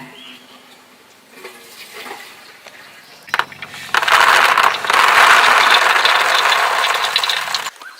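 Water pouring in a steady rush, starting about three seconds in and stopping suddenly near the end.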